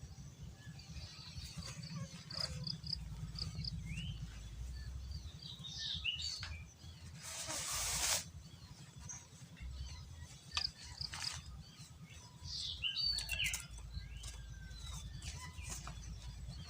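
Birds chirping in short, scattered calls over a steady low rumble, with a brief burst of rustling noise about seven seconds in.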